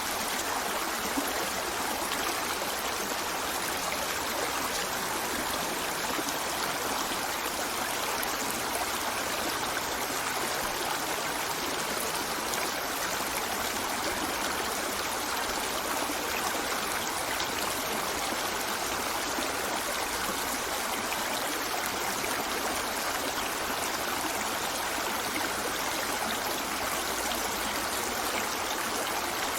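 River water flowing over stones, a steady rushing and trickling.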